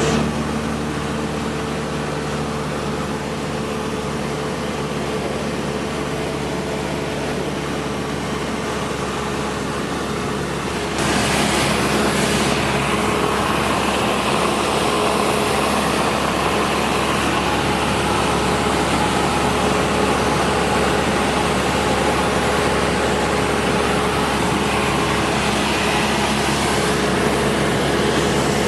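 Cessna 172 Skyhawk II's four-cylinder piston engine and propeller droning steadily in flight. About eleven seconds in the drone gets louder and brighter, then holds steady.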